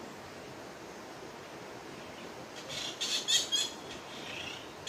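A small bird's quick run of high-pitched chattering calls, beginning about two and a half seconds in, with a fainter call near the end.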